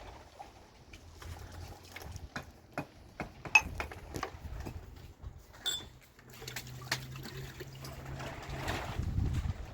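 Water trickling, with scattered clicks and knocks, one louder than the rest about halfway through, and a low steady hum in the second half.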